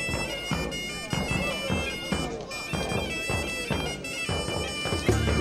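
Folk music: a reedy wind instrument plays a melody with long held tones over a steady drum beat of about two strokes a second.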